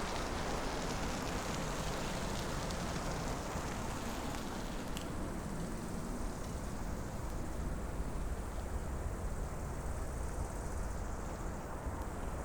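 Jet airliner engine noise at an airport, a steady rushing sound with a low rumble whose hiss fades gradually through the second half as the aircraft moves away.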